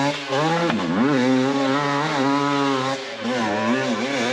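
Off-road motorcycle engine revving hard under load on a steep climb, its pitch dropping sharply about a second in and then rising again and wavering as the throttle is worked.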